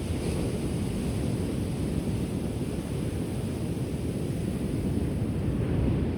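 Ocean surf as a steady low rumble, swelling slightly near the end, with wind buffeting the microphone.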